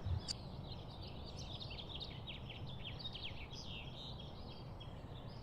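Faint chirping and twittering of small birds, many short high calls overlapping over a low hiss.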